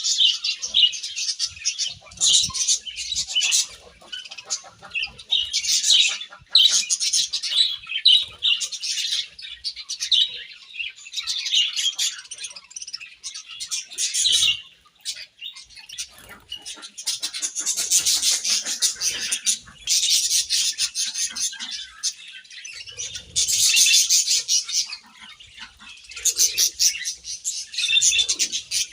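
A group of budgies chirping and chattering in quick, high-pitched bursts, with a brief lull about halfway through.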